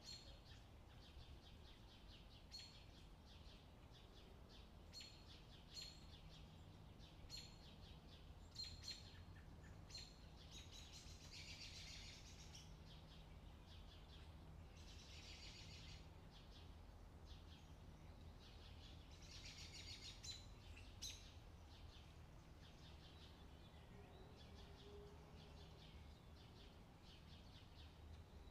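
Faint bird chirping: short single chirps every second or so, with a few longer twittering bursts, over a low steady hum.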